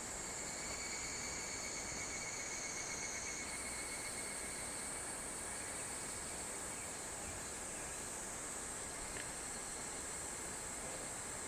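Summer cicadas singing in a steady, high continuous chorus, the pitch of the chorus shifting upward about three seconds in, over an even hiss of river water.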